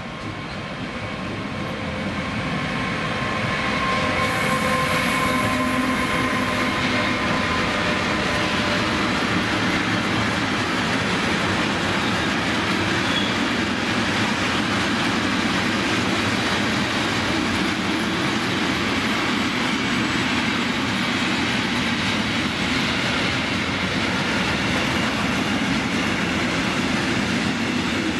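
Freight train hauled by two Siemens Class 189 electric locomotives passing close by. The noise builds over the first few seconds to the steady, loud rolling din of its intermodal wagons loaded with lorry trailers. A few faint steady tones sound in the first several seconds as the locomotives go by.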